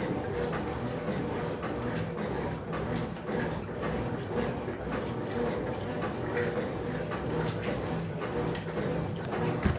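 Electrolux LF75 top-loading washing machine running its wash cycle, most likely agitating: a steady motor hum with irregular mechanical churning. A single sharp knock comes near the end.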